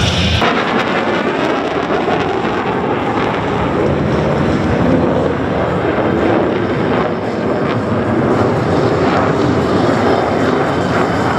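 Loud, steady jet engine noise from USAF Thunderbirds F-16 Fighting Falcon fighter jets in flight.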